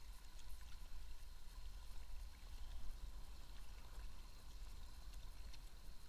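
River water rushing and splashing around a kayak as it runs between rocks, with small scattered splash ticks over a steady low rumble.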